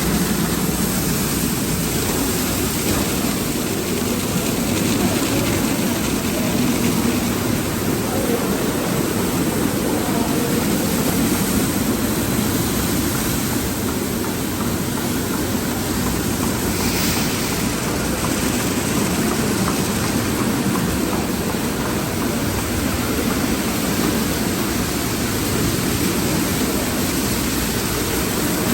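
Express car wash tunnel equipment running: a steady rushing roar that holds at one level throughout.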